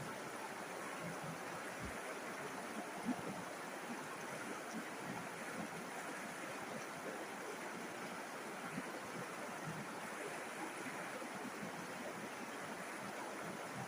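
River water flowing in a steady, even rush, with small splashes through it and one slightly louder splash about three seconds in.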